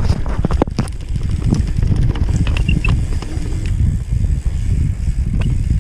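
Mountain bike riding over a dirt trail, heard through the bike's on-board camera: a steady low rumble with scattered knocks and rattles.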